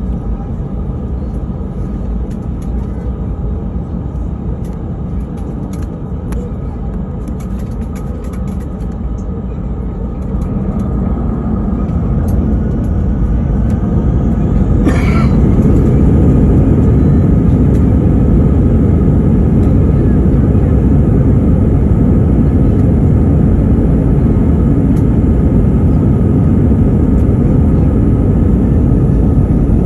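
Airbus A319 engine and airframe noise heard inside the cabin, a steady rumble that grows louder about halfway through and then holds at the higher level, with one brief higher sound in the middle.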